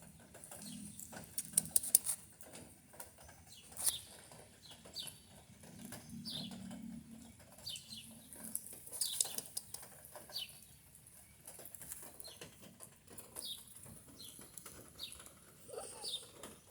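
A bird calling over and over: short high chirps, each sliding down in pitch, about one a second, with a few sharp clicks near the start.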